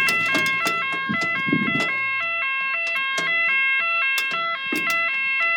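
UK level crossing's warning alarm sounding steadily: a two-tone electronic yodel, switching back and forth between two pitches several times a second.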